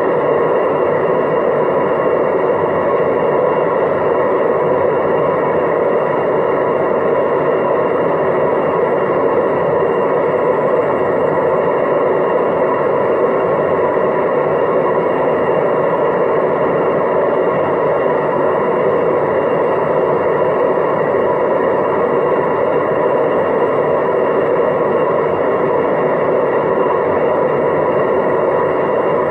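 Hoover DYNS 6105 DZ front-loading washing machine spinning steadily at 800 rpm on a spin-only cycle, a continuous even whirring roar. The machine's drum bearings are faulty.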